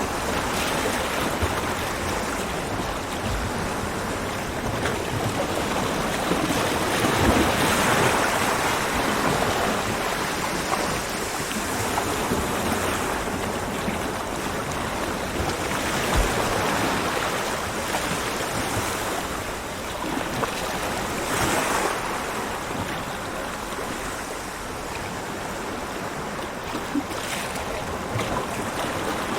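Ocean waves breaking on a beach, a continuous wash of surf that swells and eases every few seconds.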